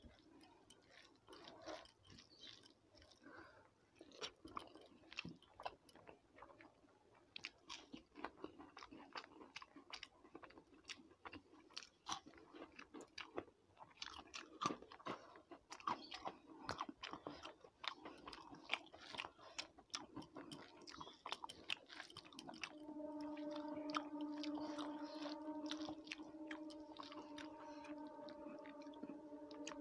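Close-up chewing and biting of rice and fried food, with many small sharp clicks and crunches. About 23 seconds in, a steady low hum starts and continues.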